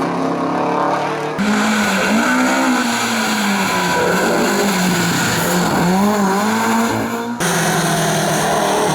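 Historic rally car engines revving hard on a stage, the pitch climbing and dropping with throttle and gear changes. The sound switches abruptly to another car about a second and a half in and again near the end.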